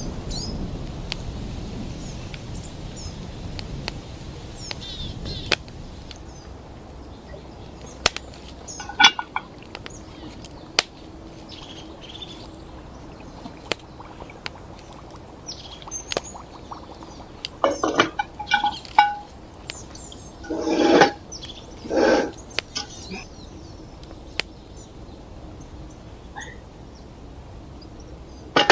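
Forest ambience with small birds chirping and scattered sharp clicks, plus a few louder knocks and clatters about two-thirds of the way in.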